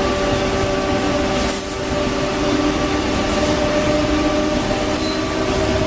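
WAP7 electric locomotive running, heard from the cab: a steady hum of several held tones over the rumble of the train.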